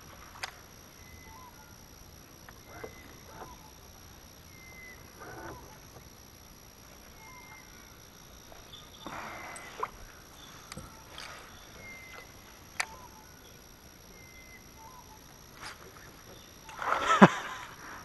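Quiet riverbank ambience with a bird repeating a short chirp every two to three seconds, a few sharp clicks, and a louder, brief noisy burst near the end.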